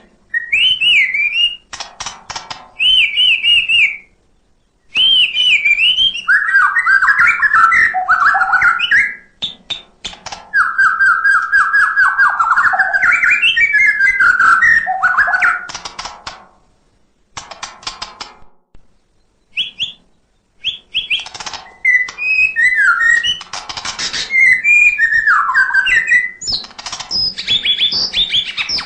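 White-rumped shama (murai batu) singing: a run of loud, varied whistled phrases with sliding notes and quick chattering runs, broken by short gaps and a pause of a few seconds midway.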